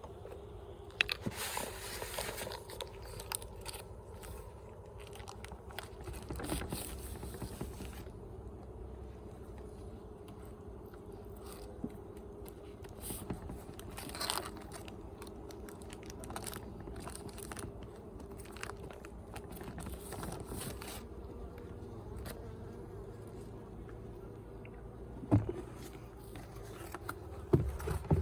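Honey bees humming steadily around an open hive, with scattered light scrapes and clicks from work on the frames and two sharp knocks near the end.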